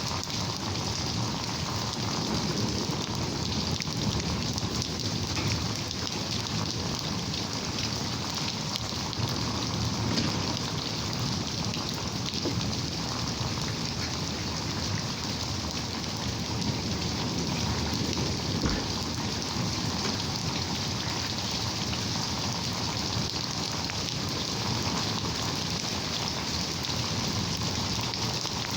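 Steady rain falling during a thunderstorm, an even hiss of drops that holds level throughout.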